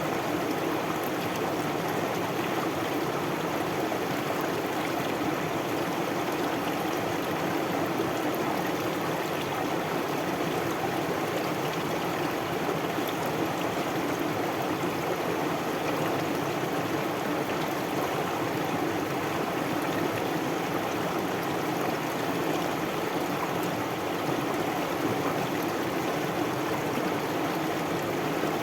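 Stream water flowing and babbling steadily, an even rushing sound with no change in level.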